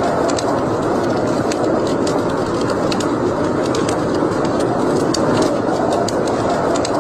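Wood fire burning in a fireplace: a steady rush of flames with frequent sharp, irregular crackles and pops.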